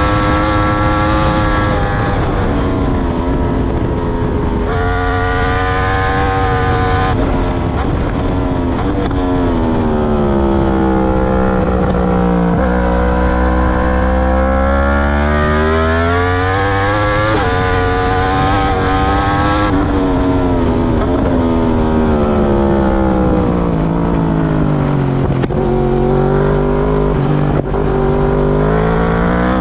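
2021 Yamaha R1's crossplane inline-four through an Akrapovic full titanium exhaust fitted with a dB killer, heard from onboard at track speed. The revs climb and jump at quick gear changes, then twice sink in long slides under braking and downshifts, about a third of the way in and again past two-thirds, before pulling back up.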